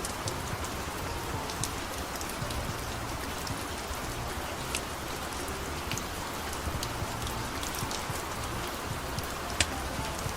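Steady rain falling, an even hiss with scattered sharp ticks of drops striking a surface and one louder tick near the end.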